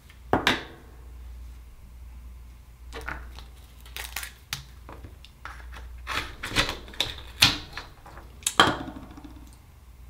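Irregular sharp clicks and knocks of Akoya oyster shells and hard tools being handled while opening oysters, a cluster of them about two thirds of the way through, over a steady low hum.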